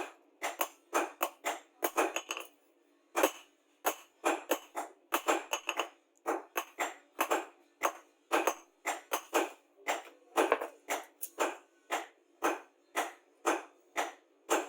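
Quick, short strokes of hand-tool work on the steel of an old rusty knife, about two to three a second, with brief pauses about two and a half seconds in and again about six seconds in.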